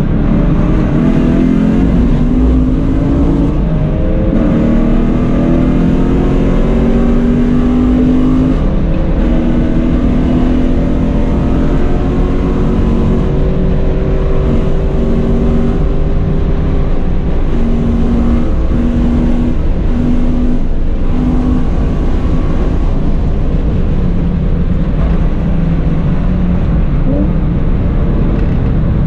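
Car engine at full throttle on a track lap, heard from inside the cabin: the revs climb slowly and steadily over the first several seconds, then the note holds high and breaks off in several short gaps midway, over steady road and wind rumble.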